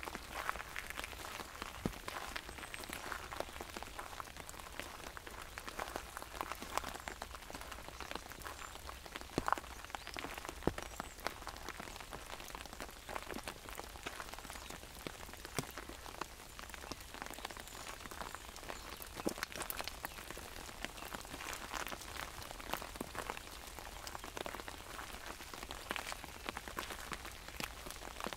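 Rain falling on an umbrella: a steady hiss of rain with many sharp, irregular taps of drops hitting the canopy.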